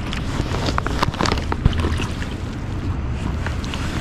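Running river water with wind rumbling on the microphone, and a few brief sharp sounds about one to two seconds in.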